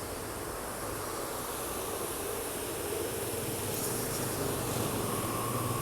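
Steady machinery hum with a high hiss and a few faint steady tones, from workshop machinery running.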